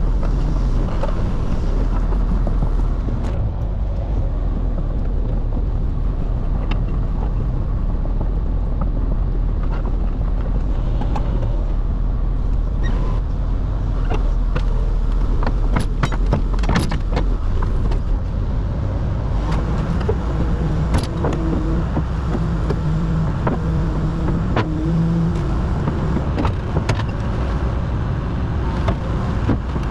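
Kobelco 210 excavator's diesel engine running steadily under the operator's control, with a few sharp metallic clanks around the middle. A steady hum joins the engine for several seconds in the second half.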